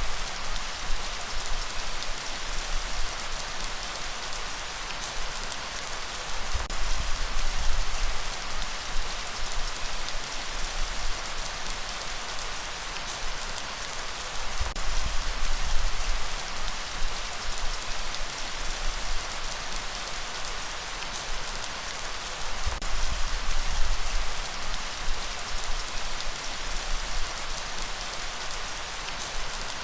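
Steady rain falling in a dense, even hiss. A low rumble underneath swells and eases every eight seconds or so.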